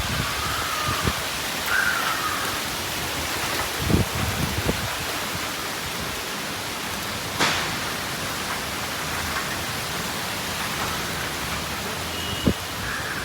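Steady rain, an even hiss, with a few short low thuds scattered through it and one sharp click about halfway.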